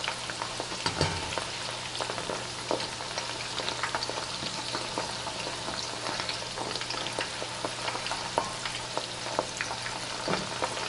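Marinated boneless chicken pieces frying in hot oil in a wok: a steady sizzle full of small pops and crackles, with a metal spoon turning the pieces against the pan now and then.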